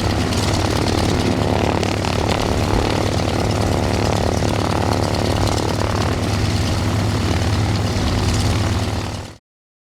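Boeing Stearman biplane's radial engine and propeller running steadily, then cutting off suddenly near the end.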